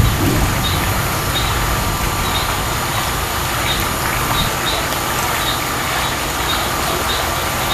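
Steady hiss of heavy rain falling during a thunderstorm, with a few faint high chirps scattered through it.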